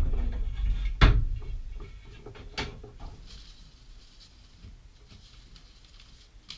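A few sharp knocks and clicks of objects being handled and set down, the loudest about a second in, then a couple of lighter ones, fading into a quiet room.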